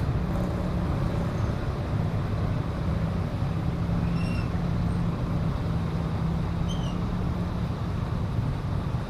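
Steady low mechanical rumble with a humming tone, like a large vehicle running, with two short high chirps about four and seven seconds in.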